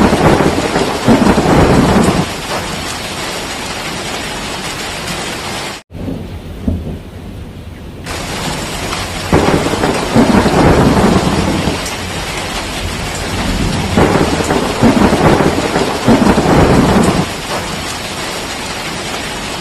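Steady heavy rain with rolling thunder, which swells at the start, again about ten seconds in, and once more around fifteen seconds in. About six seconds in, the sound cuts out for an instant and returns muffled for a couple of seconds.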